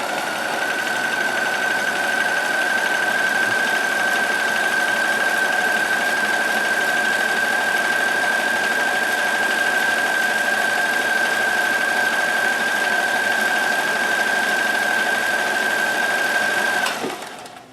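Kenmore 158.1914 sewing machine running steadily as it stitches a multi-point zigzag, its motor giving a steady whine. It starts right at the beginning and stops sharply near the end.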